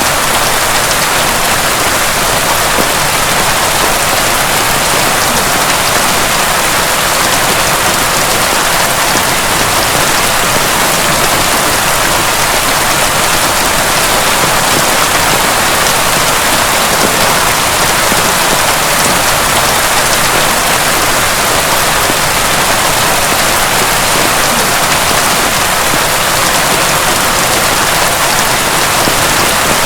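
Heavy, steady rain: a dense, even hiss of many drops striking a surface, holding constant throughout.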